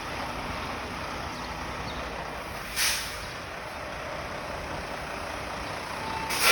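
Tractor-trailer running amid street traffic, with a short hiss of air brakes about three seconds in and another starting near the end.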